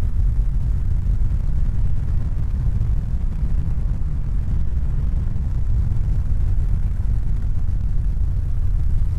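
A steady, loud low rumble with a fainter hiss above it, with no pitch or rhythm.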